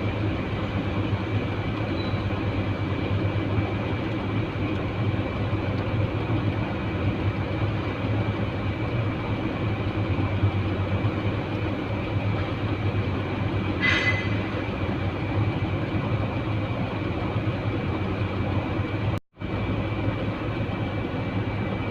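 Truck engine running with a steady low drone. A short high-pitched tone sounds once about fourteen seconds in, and the sound cuts out for a split second near the end.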